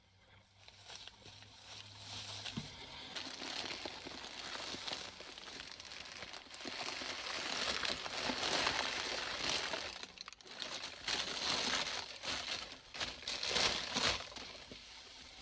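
Beach litter crinkling and crackling as it is crumpled and handled, with a brief pause about two-thirds of the way through.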